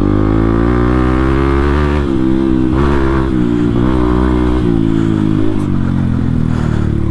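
Motorcycle engine running through a full-system aftermarket exhaust with the dB killer removed, holding low, steady revs with brief dips and rises in pitch as the throttle changes.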